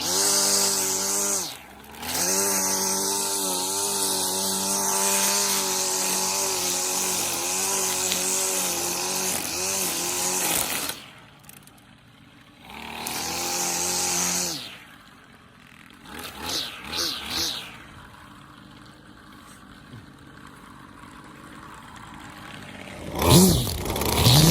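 Toro string trimmer's 25cc Kawasaki two-stroke engine running. It holds high revs for about ten seconds, then drops back toward idle. It is revved in a short burst and a few quick blips, then idles quietly, and is revved hard again near the end.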